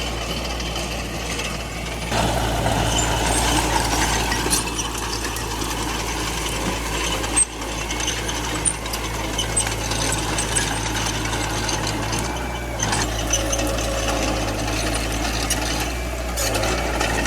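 Small crawler bulldozer working: its diesel engine runs steadily under a continuous clatter and clicking of metal parts.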